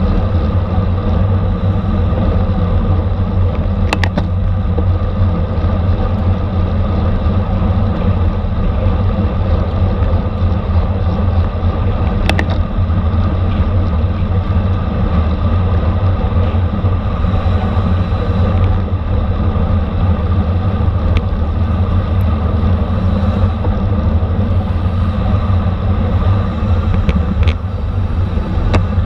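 Steady, loud wind rush and road noise on a camera carried on a racing bicycle at speed, with a few faint clicks.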